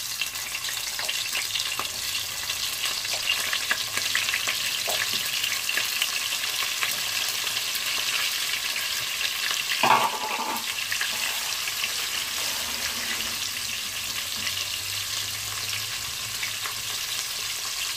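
Pieces of dried fish frying in hot oil in a deep pot: a steady sizzle full of small crackles, briefly louder about ten seconds in.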